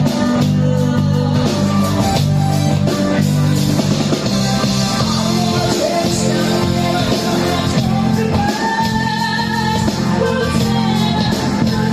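Rock music: a singer over a band, with held low bass notes under a sung melody line, playing without a break.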